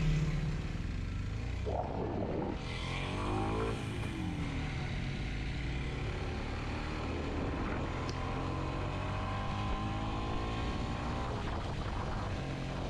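Kawasaki Z125's 125 cc single-cylinder four-stroke engine riding along. It revs up and down in pitch a couple of times about two to four seconds in, then climbs slowly in pitch for several seconds as it pulls through a gear.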